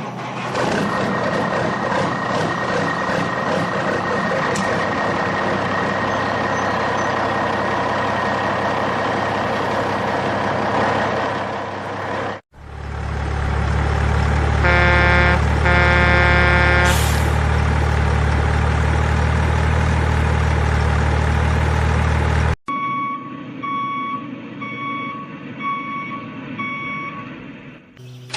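Truck sounds in segments that cut off abruptly: a truck engine running, then a deeper, louder engine rumble with two horn blasts, then a reversing alarm beeping about once a second.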